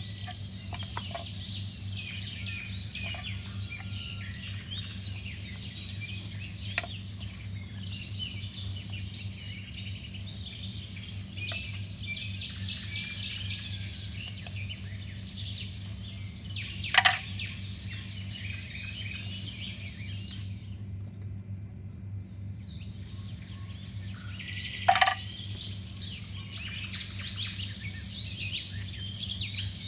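Many small birds chirping and twittering continuously, over a low steady hum. There are two sharp knocks, the loudest sounds: one a little past halfway and another about eight seconds later. The chirping briefly stops a couple of seconds before the second knock.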